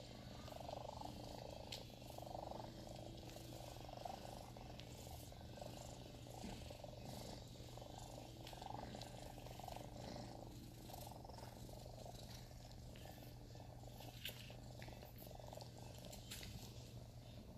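Sphynx kittens purring softly, the purr swelling and fading with each breath about once a second, with a few faint ticks and rustles.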